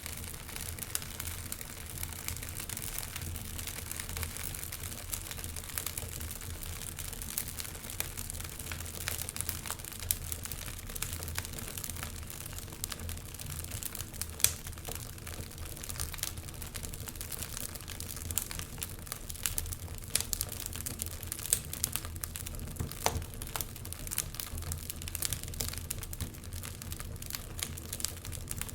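Wood fire burning in a fireplace, crackling steadily with many small pops and snaps and one louder snap about halfway through, over a low steady hum.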